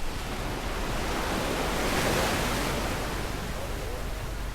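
Sea waves breaking and washing up the beach, the hiss of surf swelling to a peak about halfway through and then easing off.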